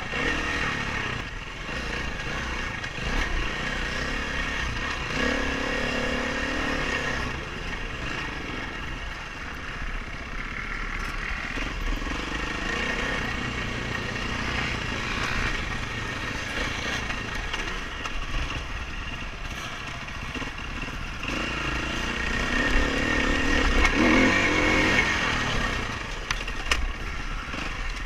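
Dirt bike engine running at changing revs while being ridden on a trail, getting louder for a few seconds about three quarters of the way in.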